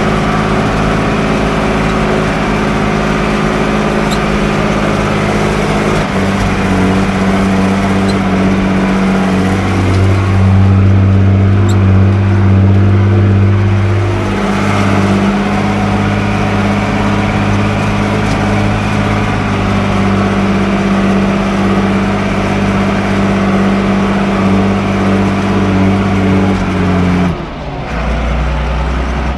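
Fendt 312 LSA tractor's diesel engine running steadily, its note shifting in steps and getting louder for a few seconds about a third of the way in. Near the end the engine note drops suddenly.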